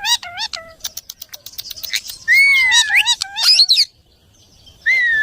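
A parrot calling: quick chirps, then a run of sharp clicks, then loud whistles that glide up and down in pitch. After a short pause near the end comes one more whistle that dips and then sweeps up.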